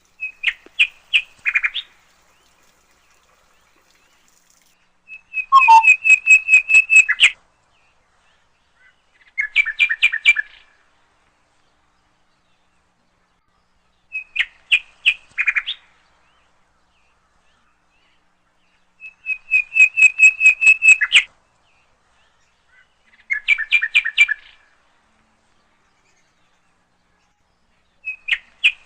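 A songbird singing short phrases of rapid, sharp repeated notes, about one every four to five seconds, with silence between; the phrases come in a few set patterns that repeat in turn.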